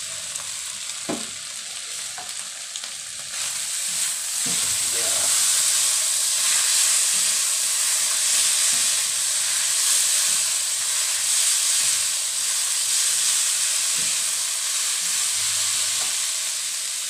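Yellow noodles and beaten egg sizzling in a hot non-stick wok as two spatulas toss and stir them. The sizzle grows louder about four seconds in, and the spatulas knock against the pan a few times.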